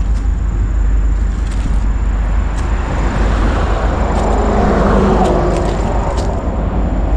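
A motor vehicle passing by, growing louder to a peak about two-thirds of the way through and then fading, over a steady low rumble.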